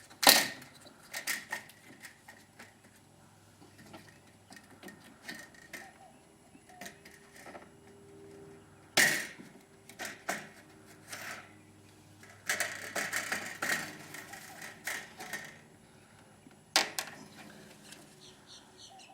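Hand work on a window's channel balance being refitted in the frame: sharp clicks and knocks of the balance and its clip in the side track, the loudest just after the start, with a run of rattling knocks around the middle to late part and quiet handling between.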